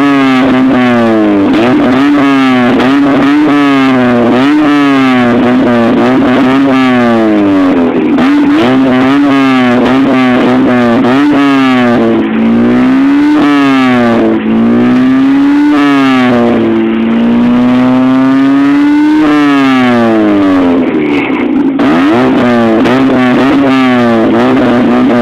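Oldsmobile Alero engine through an aftermarket Monza exhaust, revved in repeated quick throttle blips, its pitch rising and falling about once a second, with a few longer, slower revs in the middle.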